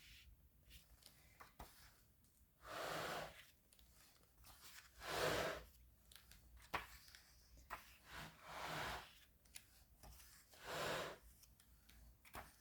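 Pages of an old hardback book being turned: four soft swishes a couple of seconds apart, with a few light clicks between them.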